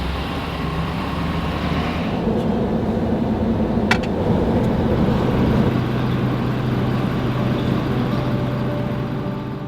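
2024 Ford F450 diesel pickup running downhill while towing a fifth-wheel trailer: steady engine and road noise, with a single sharp click about four seconds in.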